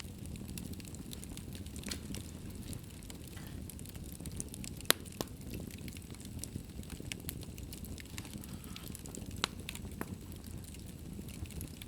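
Wood fire crackling in a fireplace: a steady low rush of flames with scattered sharp pops, the loudest about five seconds in.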